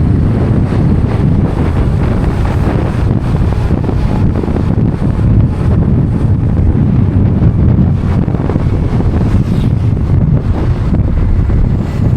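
Steady wind buffeting on the microphone of a rider on a moving motorcycle, a dense low rumble with the vehicle's road and engine noise underneath.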